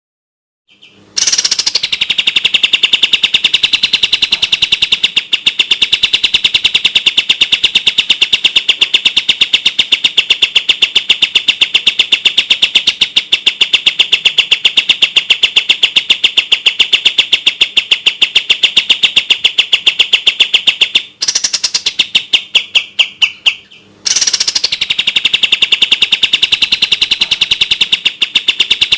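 Kapas tembak bird singing its fast, tight trill: a rapid, even stream of high notes held on one pitch for about twenty seconds. It breaks into a slower, stuttering run of notes for a few seconds, then the fast trill resumes.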